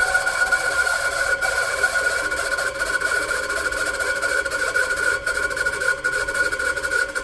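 A machine running steadily, with a constant high-pitched whine over a steady hiss. The owner asks whether the whine is a bad bearing.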